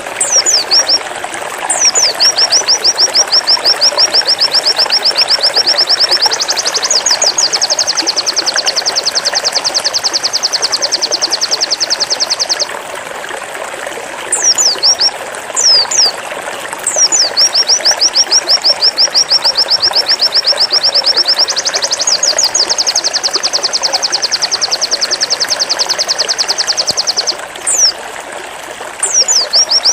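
Pleci (white-eye) singing its 'zipper' song: a few sharp down-slurred whistles, then a long rapid rattling trill of high repeated notes lasting about ten seconds, which steps up in pitch halfway through. The pattern comes twice, with a third trill starting near the end, over a steady background hiss like running water.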